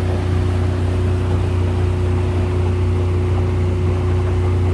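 Motorboat engine running at a steady speed while underway: an unchanging low drone with a steady higher hum over a constant rushing noise.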